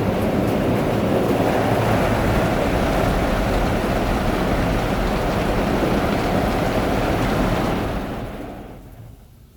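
Soft-touch automatic car wash working over a van, heard from inside the cabin: a loud, steady rush of spraying water and scrubbing cloth on the body that fades away about eight seconds in as the wash passes off.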